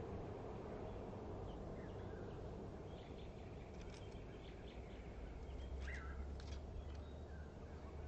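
Faint outdoor ambience: a few short, scattered bird chirps, mostly in the middle stretch, over a steady low hum and hiss.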